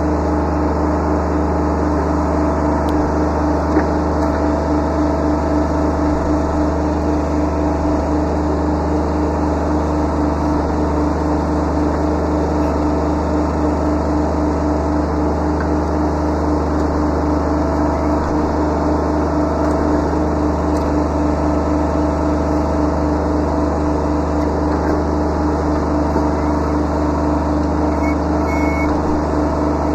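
Kubota B7100 subcompact tractor's three-cylinder diesel engine running steadily at high throttle, a constant pitch with no change in engine speed.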